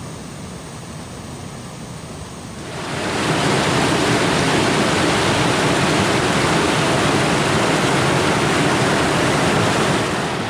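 Waterfall rushing, a steady wash of falling water that grows much louder about three seconds in and eases slightly near the end.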